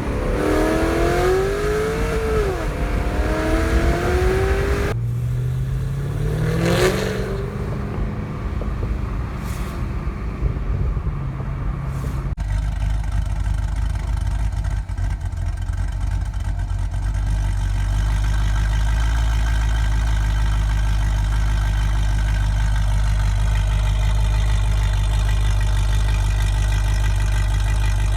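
Exhaust of a 2016 Chevrolet SS's supercharged LSA V8, through long-tube headers, an X-pipe with the resonators deleted and stock bimodal mufflers. It is loud and revving, with pitch rising and falling through the first several seconds. About twelve seconds in it changes abruptly to a steady, low, deep drone.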